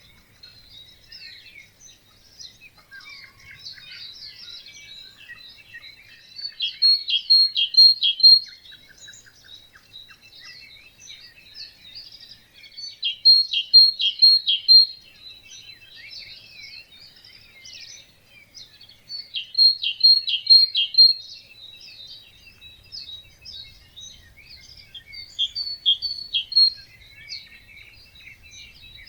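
Wetland dawn chorus of many songbirds chirping, with one nearby bird repeating a loud short song of about four quick notes, four times at roughly six-second intervals.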